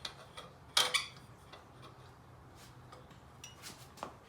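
Hand tools clinking against metal engine parts: one sharp metallic clink about a second in, then a few faint ticks and clicks.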